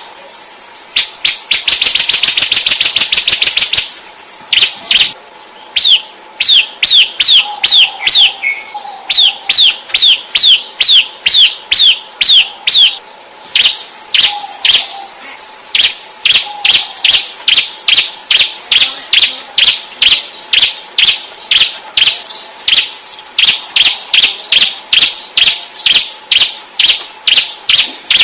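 Songbird tutor recording (masteran): a bird repeating a sharp, quick downward-sweeping whistled note about twice a second, over a continuous very high, insect-like buzz. The notes come fast and dense in the first few seconds, pause briefly, then run on steadily.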